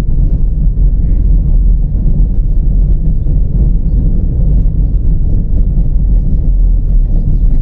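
Chevrolet Celta driving over a rough, rutted dirt road, heard from inside the car: a loud, steady low rumble of tyres and body with small scattered rattles and knocks.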